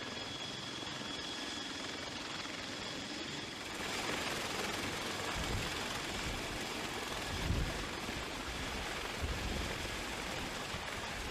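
Helicopter running, a steady rush of turbine and rotor noise that grows a little louder about four seconds in.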